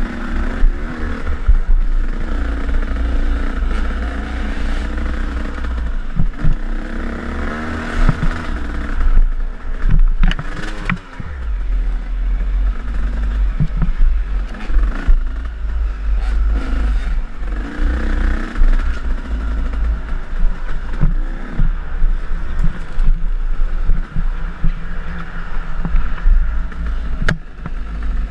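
KTM enduro dirt bike engine revving up and down as it rides a trail, its pitch rising and falling with the throttle over a deep steady rumble.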